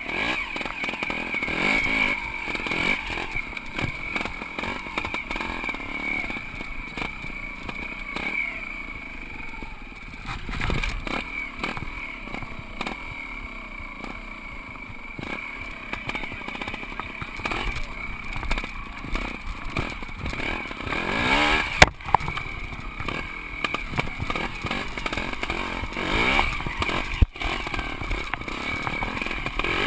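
Trial motorcycle engine running and being revved up and down in short blips, with knocks and rattles from the bike over rough ground.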